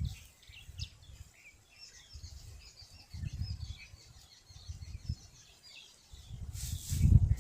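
Many small birds chirping and twittering in quick, overlapping high notes, over low rumbling gusts that come and go every second or so and swell loud near the end.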